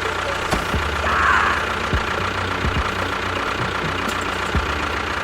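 Small motor of a DIY mini tractor or bulldozer running steadily, with a few irregular knocks and rattles.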